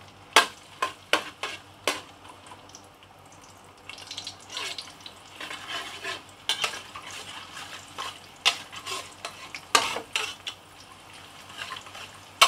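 Sliced shallots frying in hot oil in a wok, sizzling, while a metal spatula scrapes and clacks against the pan as they are stirred. The sizzle picks up about four seconds in.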